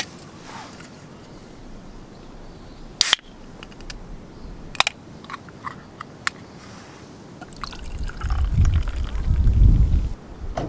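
A drink being handled and poured: two sharp clicks and a few lighter ticks, then liquid pouring. A loud low rumble runs through the last few seconds.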